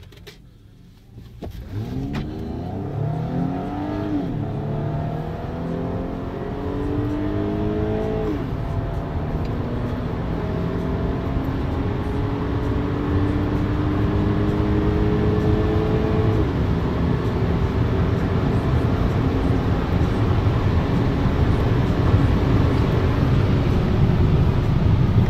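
Audi A6 C6 3.0 TFSI supercharged V6 launching from a standstill and pulling at full throttle through the gears, heard from inside the cabin. The engine note rises steadily and drops back at three upshifts, and tyre and wind noise build as the car passes 200 km/h.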